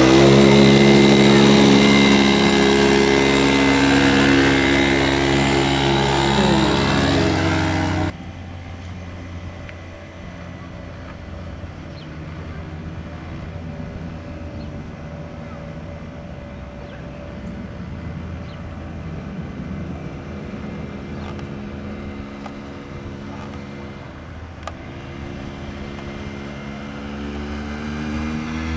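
Mini motorcycle engine running loudly close by with a steady pitch. About eight seconds in it drops suddenly to a much fainter hum. Near the end it grows louder again, its pitch rising.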